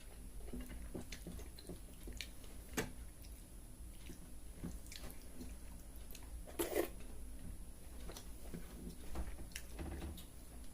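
Close-miked chewing and wet mouth sounds of someone eating watered rice (pakhala bhata), with scattered soft clicks and a louder wet smack about two-thirds of the way through.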